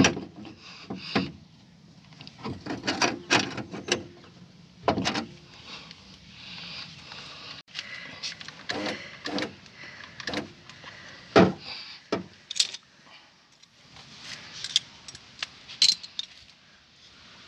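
Irregular metallic clinks, taps and knocks from hand work on a car door's window regulator bar as it is handled and straightened, with a few louder knocks scattered through.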